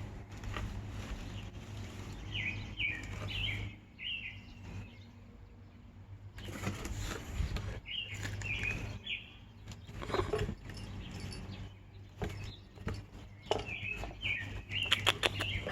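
A small bird chirping in three short clusters of three or four high notes, each cluster several seconds apart, with rustling and knocks between them.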